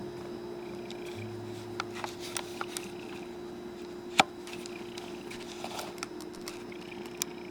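Light clicks and taps of tools and brake parts being handled on a workbench, with one sharper knock about four seconds in, over a steady low hum.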